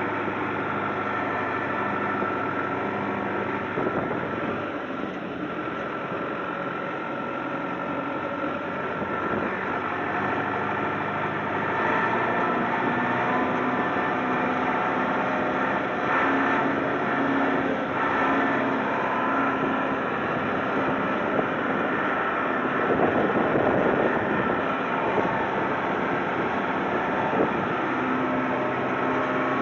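A vehicle engine running steadily, a constant hum with a low drone under it, slightly louder in the second half.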